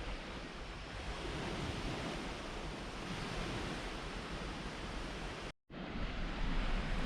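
Steady rush of lake waves on a beach, mixed with wind on the microphone. The sound drops out completely for a split second about five and a half seconds in.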